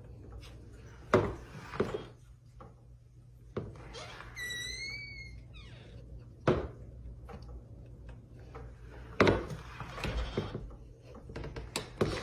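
Several dull knocks and thumps at irregular intervals, and one short squeaky call about four and a half seconds in.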